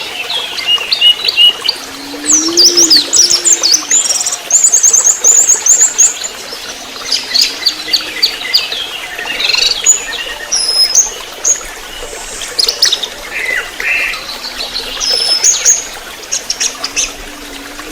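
Orange-headed thrush song: a dense run of quick chirps, rapid rattling trills and sharp rising and falling whistles. A low, soft arched note sounds underneath about four times.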